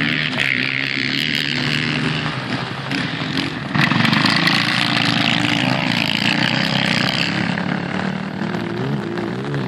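Motorcycle engines revving during a race, the pitch rising and falling as the bikes accelerate, getting louder suddenly about four seconds in.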